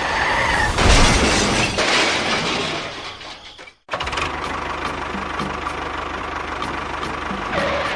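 A machine's motor running, with an abrupt cut just before four seconds in; after the cut it settles into a steady running hum.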